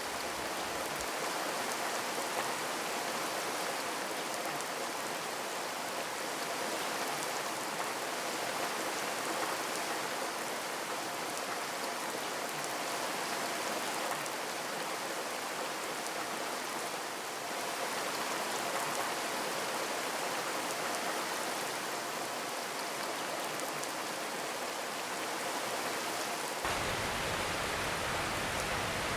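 Steady rain drumming on a corrugated zinc roof: a dense, even patter of drops on sheet metal with no thunder.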